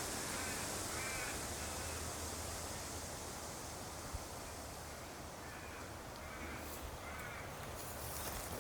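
A crow cawing: one call about a second in, then a run of three calls between six and seven and a half seconds, over a steady low rumble.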